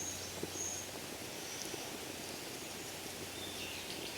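Faint outdoor ambience: a steady hiss with a couple of brief high chirps in the first second.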